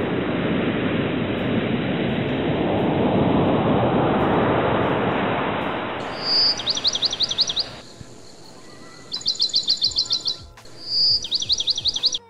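A steady rush of noise that swells and fades over the first several seconds, then a bird singing three phrases, each a short high whistle followed by a fast trill of downward-slurred notes.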